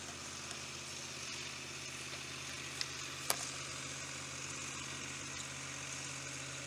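A steady low engine-like hum under a constant hiss, with two sharp clicks about half a second apart near the middle.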